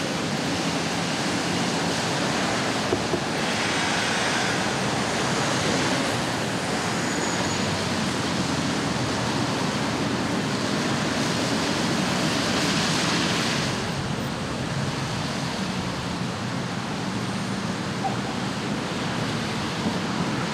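Steady hiss of falling rain, swelling louder a couple of times.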